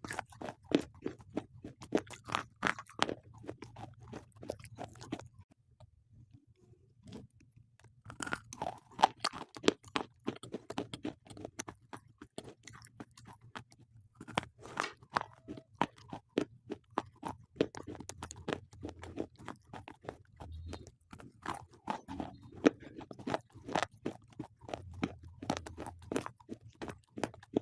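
Slate pencils being bitten and chewed close to the microphone: rapid, sharp, gritty crunches. They pause for about two seconds some five seconds in, then carry on.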